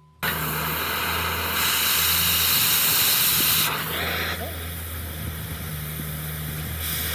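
Steady loud hiss over a low, even hum. It starts suddenly, grows stronger about a second and a half in, and eases back near four seconds.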